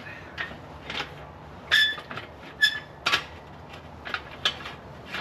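Metal pieces being handled and knocked together, a string of separate clanks and knocks. Two of them, near the middle, ring briefly like struck steel.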